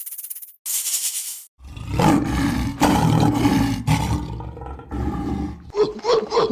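A short hissing sound, then a big cat's deep, rough roar lasting about four seconds, followed near the end by a run of quick, evenly spaced calls.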